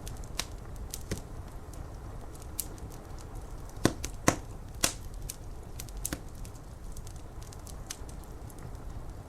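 Fire crackling with scattered sharp pops, three louder ones close together near the middle, over a steady background of rain.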